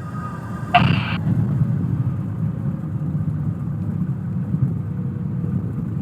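Cockpit sound of a Cessna 172 with its engine at idle during the landing rollout: a steady low rumble, with one short loud burst just under a second in.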